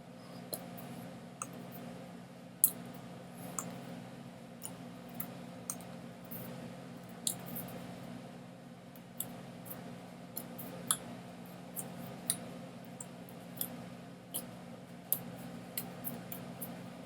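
Irregular sharp clicks, about one or two a second, over a steady low hum.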